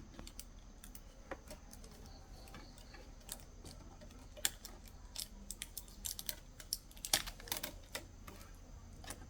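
Irregular small clicks and taps, sparse at first and coming thicker in the second half, from hands working on the parts of an opened TV.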